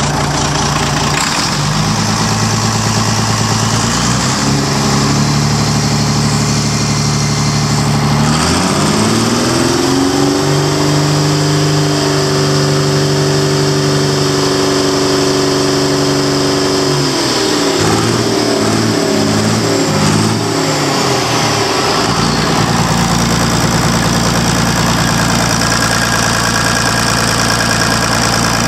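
Volvo TD73 turbo diesel engine running: it idles, is revved up to a higher steady speed about a third of the way in, holds there for several seconds, then drops back to idle.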